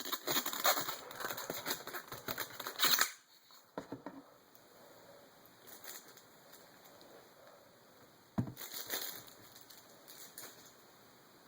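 Packaging crinkling and rustling as a diecast model is handled and lifted out of its box, densest in the first three seconds. A single knock comes about eight seconds in, followed by a short stretch of rustling.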